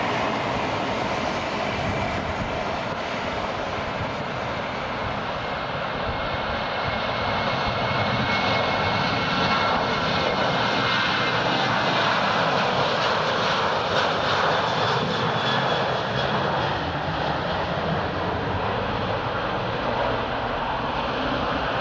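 Jet airliner noise from a Boeing 737-800's twin CFM56 turbofan engines: a steady, loud roar with a faint whine on top, swelling a little around the middle.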